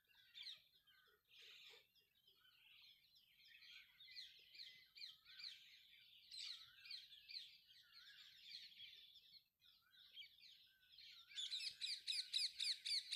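Faint birdsong: small birds chirping and twittering in short scattered calls. Near the end a run of quickly repeated chirps, about five a second, starts up and grows louder.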